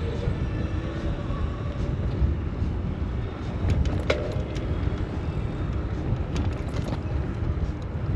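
City road traffic noise, with a heavy, gusty rumble of wind on the microphone from riding a bicycle. A few sharp clicks and rattles, the clearest about four seconds in.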